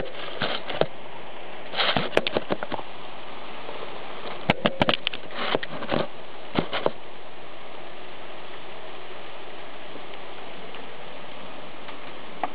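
Steady rain during a thunderstorm, an even hiss, with clusters of sharp pattering clicks during the first seven seconds.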